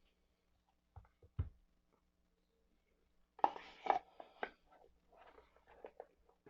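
Handling of a small two-piece cardboard card box: a couple of soft knocks about a second in, then a brief rustle of cardboard about three and a half seconds in, followed by a few light taps.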